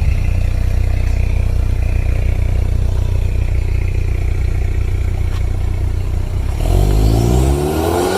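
Ford Mustang 2.3 EcoBoost turbocharged four-cylinder running through a full stainless steel exhaust with Valvetronic, idling with a steady low rumble. Near the end it is revved, the pitch climbing quickly.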